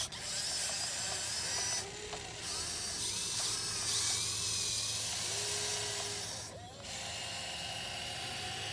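Electric drive motors and gearboxes of a 1580 RC excavator whining as the arm and bucket dig, the pitch shifting as the motors work. About two-thirds of the way through the sound briefly drops off, then a steadier whine takes over.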